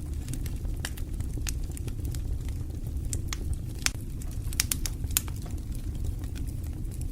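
Wood fire burning in a fireplace, with a steady low rumble of the flames and irregular sharp crackles and pops a few times a second.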